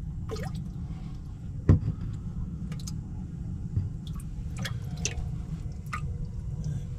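Water dripping and splashing in a boat's livewell holding live crappie, with scattered small splashes and a sharp knock a little under two seconds in, over a steady low rumble.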